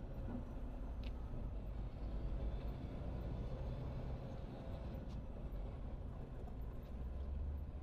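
Steady low rumble of a semi truck's diesel engine and road noise heard inside the cab while driving.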